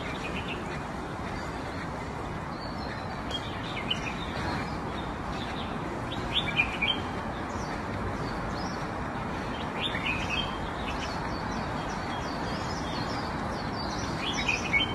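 Small birds chirping now and then, a few short high calls at a time, over a steady background hiss.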